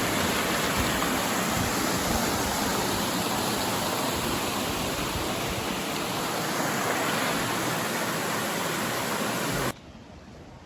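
Steady rush of flowing water, cut off abruptly near the end by a much quieter background.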